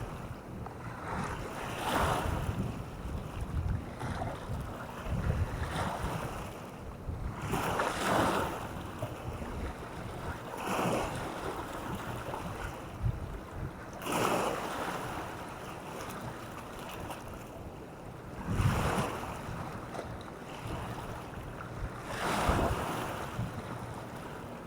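Waves washing onto the shore, the surf rising and falling in surges every few seconds, with wind buffeting the microphone.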